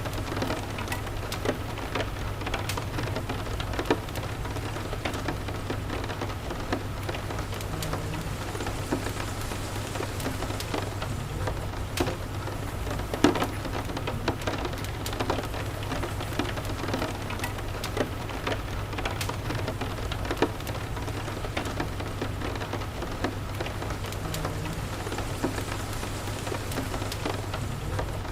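Steady rain mixed with a crackling wood fire in a fireplace: an even hiss and low rumble with scattered sharp pops and clicks, one louder pop about halfway through.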